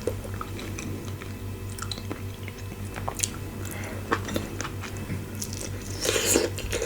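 Close-miked chewing, with scattered wet mouth clicks and smacks over a low steady hum; a louder burst of chewing comes about six seconds in.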